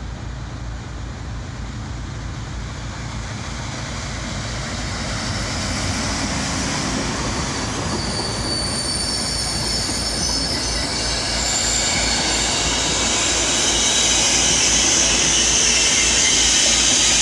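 Intercity passenger train running into the platform, its rumble growing steadily louder, with a high-pitched squeal building from about halfway as it brakes.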